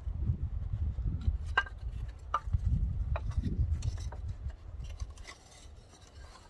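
Metal track hardware and tools clinking and knocking a few times, some strikes briefly ringing, over a low rumble; it quietens in the last couple of seconds.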